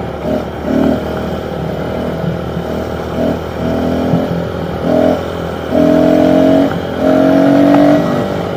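Small pit bike engine revving in repeated surges as the bike is ridden, with two longer held revs of about a second each near the end.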